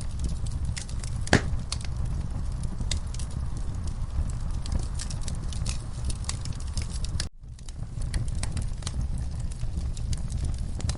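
Logs burning in a fireplace: a steady low rumble of the flames with frequent small crackles and pops, and one loud pop about a second in. The sound cuts out for an instant about seven seconds in, then carries on.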